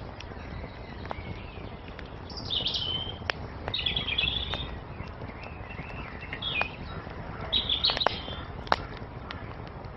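Songbirds chirping in short bright phrases over the low steady sound of a wood fire. The fire gives a few sharp crackling pops, the loudest about three-quarters of the way through.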